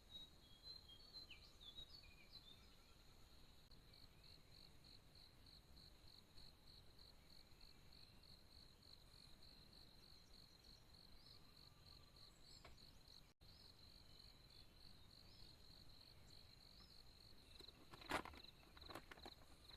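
Faint insect chirping, a cricket-like high-pitched trill pulsing about four times a second, with a couple of short knocks near the end.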